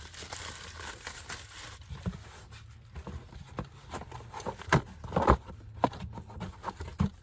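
Packaging and items being handled: rustling with scattered light clicks and knocks, the loudest of them about five seconds in.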